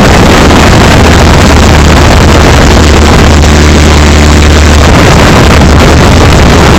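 Cessna 152's four-cylinder Lycoming O-235 engine and propeller running at a steady drone, very loud and close, over a rushing of air noise.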